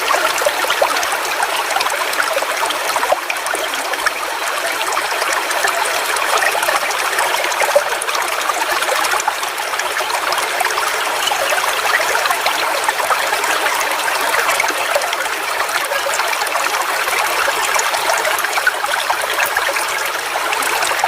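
Forest waterfall: water falling and splashing steadily, a dense, bright splashing with little deep rumble.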